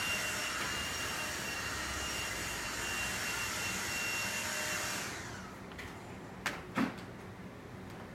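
Vacuum cleaner running with a steady high whine, switched off about five seconds in, its motor winding down. Two sharp clicks follow near the end.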